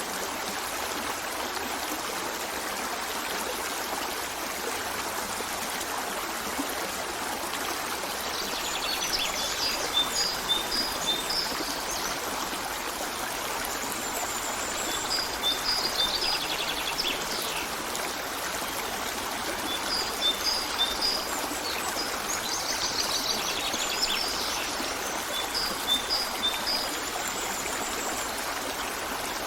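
A stream running steadily, with songbirds calling over it in short runs of high, repeated notes that come back several times from about a quarter of the way in.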